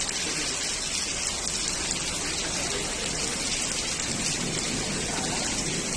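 Steady rain falling: an even hiss of rain on surfaces.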